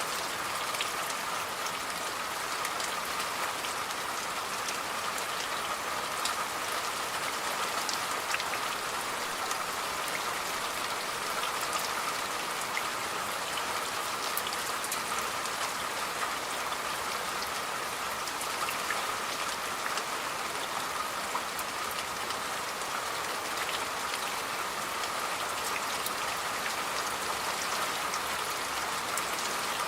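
Steady rain falling, a constant hiss dotted with many separate drop hits.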